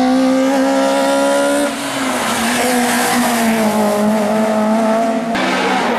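Race car engine running hard at high revs, its pitch holding nearly steady with a small drop about two seconds in; the sound changes abruptly near the end.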